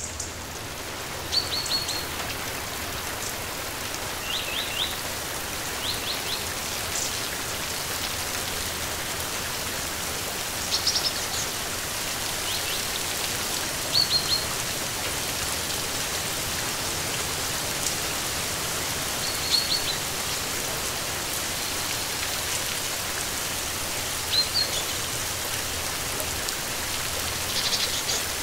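Steady rain falling, with short high bird chirps breaking through every few seconds.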